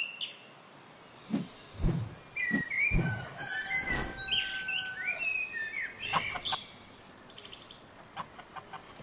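Birds chirping and calling, with quick chirps and short gliding notes overlapping for several seconds. A few low knocks come in the first half.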